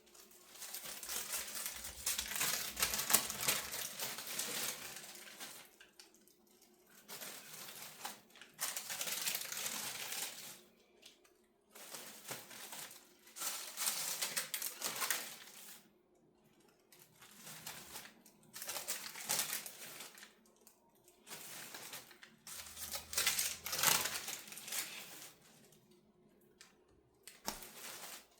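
Crinkly wrapping being handled and folded, crackling in bursts of a few seconds with short pauses between.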